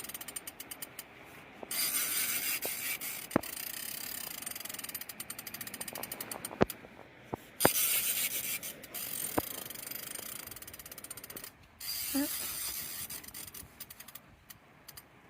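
Fishing reel drag clicking fast in bursts as a big sturgeon pulls line off against it, stopping and starting several times, with a few sharp knocks in between; near the end the clicks slow and thin out.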